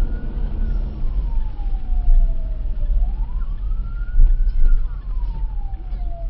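A siren wailing in slow sweeps, rising quickly and falling off gradually, twice, over a steady low rumble of vehicle and road noise.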